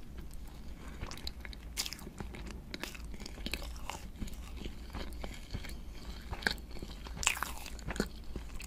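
Close-miked mouth sounds of biting and chewing a soft sponge cake: a steady run of small wet clicks and crackles, loudest near the end.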